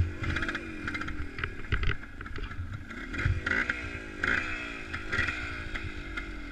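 A vehicle engine revved in repeated blips. From about three seconds in, the pitch jumps up and falls away roughly once a second.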